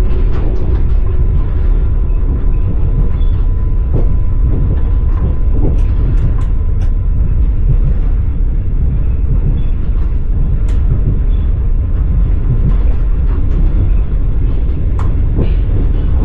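Passenger train carriage rolling along the track, heard from inside the car: a steady, loud low rumble of the wheels with scattered clicks and squeals from the wheels and carriage.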